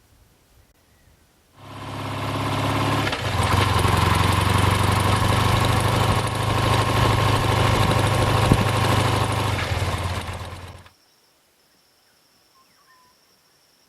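An engine starts running about a second and a half in, shifts its note once soon after, runs steadily at idle and cuts off abruptly near the end.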